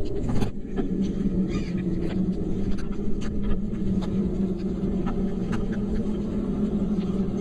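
Steady low rumble of a vehicle on the move, with scattered light ticks throughout and a brief higher-pitched sound about a second and a half in.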